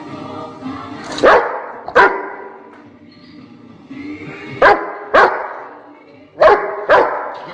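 A dog barking: six loud barks in three pairs, each pair about half a second apart.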